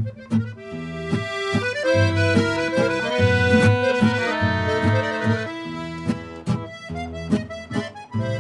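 Accordion music: a tune of held melody notes over a regular, stepping bass-and-chord accompaniment.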